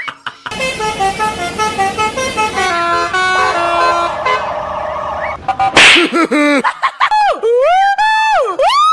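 Bus telolet horn playing a tune of held notes that step up and down. It is followed by a short, loud hissing burst, then by tones that slide up and down in pitch.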